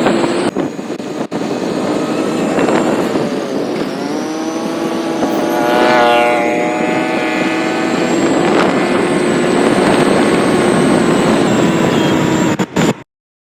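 Vehicle engine running at road speed over road and wind noise, a steady hum that dips and rises in pitch around the middle. The sound cuts off suddenly near the end.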